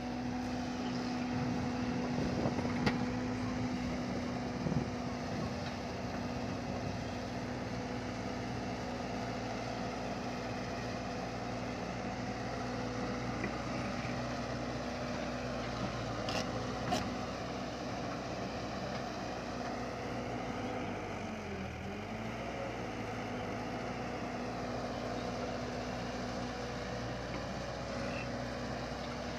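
Truck engine running with a steady hum, dipping briefly in pitch about two-thirds of the way through.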